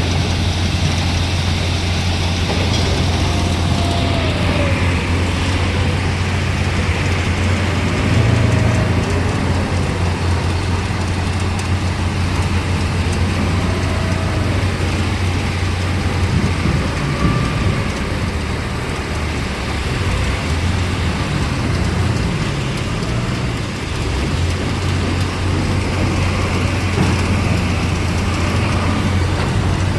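Steady low rumble of a running vehicle with continuous road noise.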